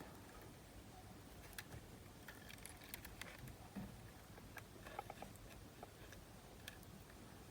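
Faint, scattered light clicks and taps of small parts being handled while a rubber drive belt is fitted onto a Panasonic RQ-S60 cassette player's capstan flywheel and motor pulley.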